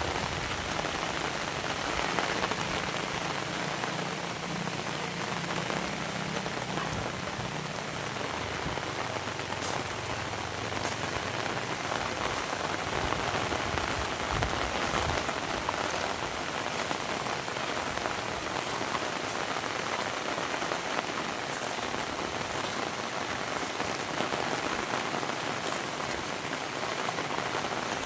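Heavy rain falling steadily, a dense even patter of drops on surfaces, with a faint low rumble underneath during the first several seconds.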